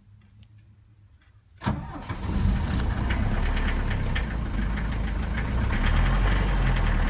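Mercedes-Benz W123 200D's four-cylinder OM615 diesel engine being started from cold at −2 °C after three weeks unused: quiet for about a second and a half, then the engine cranks and catches almost at once and runs on steadily.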